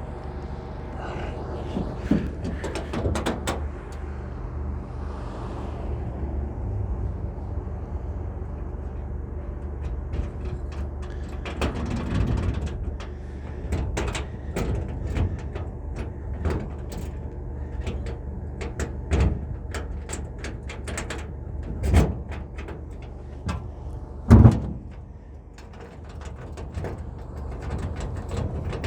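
A vehicle engine idling steadily under scattered clicks, knocks and clunks, with one loud bang about two-thirds of the way through.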